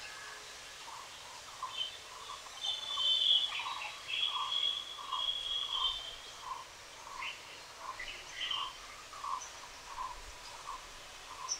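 Outdoor birdsong: a steady series of short, low calling notes about two a second, with other birds' higher chirps mostly in the first half.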